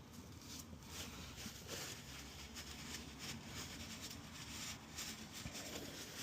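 Faint, irregular rustling and handling noises.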